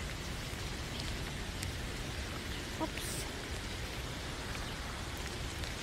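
Steady rain falling, an even hiss with a few sharp ticks of single drops landing close by.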